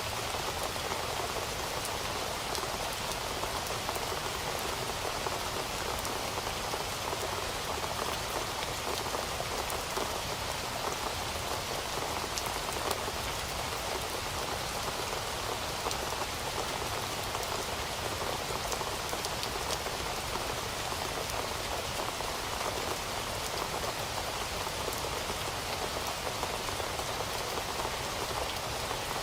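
Heavy rain falling steadily, with a dense patter of drops striking a surface.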